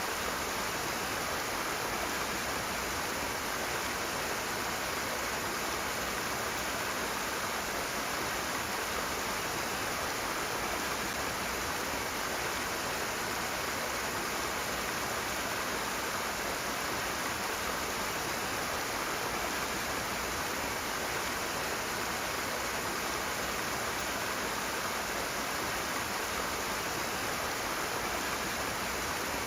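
Rushing water, a strong stream or cascade, making a steady, unbroken rush.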